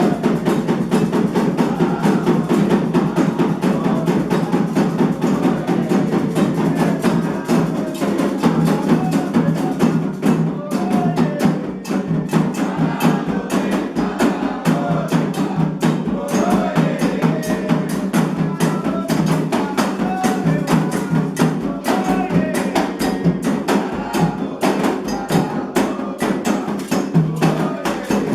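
Candomblé ritual music: atabaque hand drums beating a fast, steady rhythm with voices singing over them.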